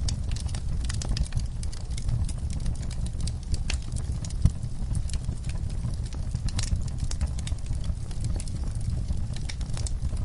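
Wood fire in a fireplace crackling: irregular sharp pops and snaps over a steady low rumble of the flames, with one louder pop a little before halfway.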